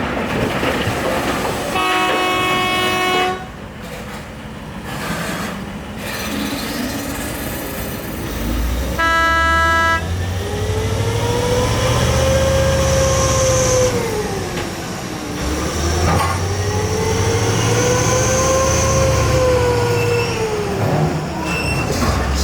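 A heavy vehicle's air horn sounding two long blasts, then a heavy engine running with a whine that rises and falls in pitch twice.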